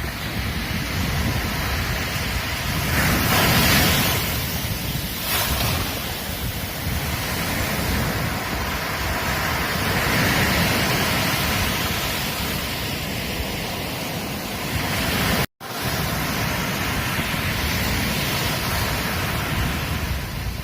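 Ocean surf breaking and washing on a beach in rolling swells, with wind buffeting the microphone. The sound cuts out for a split second about fifteen seconds in.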